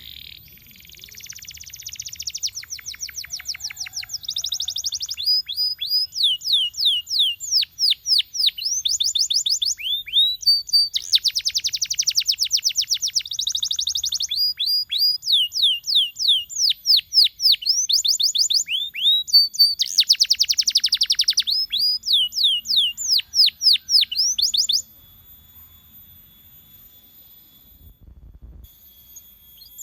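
Domestic canary singing a long song of fast trills: runs of quickly repeated high notes that sweep downward, broken by buzzy rolls. The song stops abruptly about five seconds before the end.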